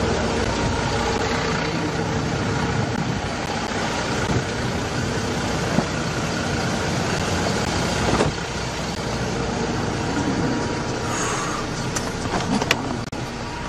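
Steady motor-vehicle engine noise, with a few sharp clicks near the end.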